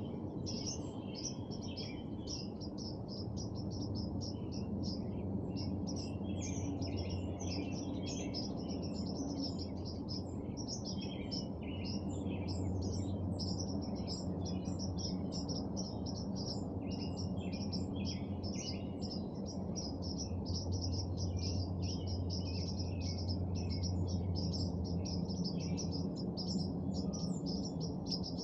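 Birds in a spring dusk chorus: many short high chirps and calls overlapping without pause, over a steady low rumble.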